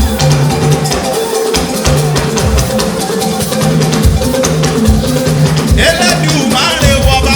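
Church band playing an instrumental passage of a Yoruba praise anthem: drums and shakers keep a steady beat over bass and held notes. Voices come back in about six seconds in.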